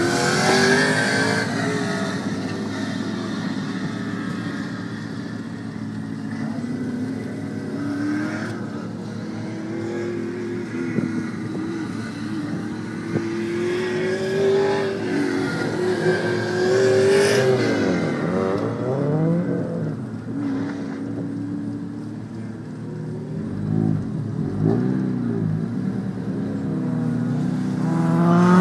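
Car engines running: a steady engine note that drifts up and down in pitch, with other cars' engines revving and passing by, once past the middle and again about two-thirds in, and an engine note rising near the end.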